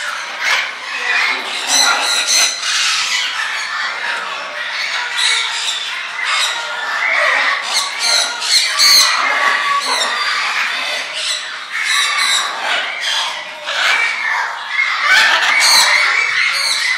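Many caged birds squawking and chattering at once, a loud, continuous din of overlapping shrill calls.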